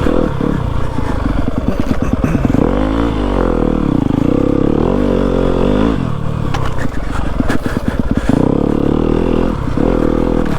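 Yamaha WR250F dirt bike's single-cylinder four-stroke engine being ridden, revving up and down over and over as the throttle is worked.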